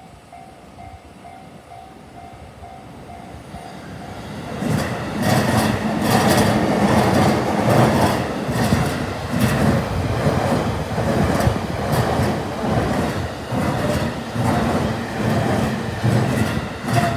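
Japanese level-crossing warning bell ringing in a steady repeating beat, then a train passing over the crossing for about twelve seconds. Its wheels clatter in a rhythm over the rail joints and drown out the bell until the train clears near the end.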